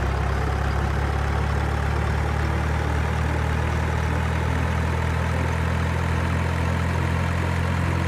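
An engine idling steadily with a low, even hum and no change in speed or pitch.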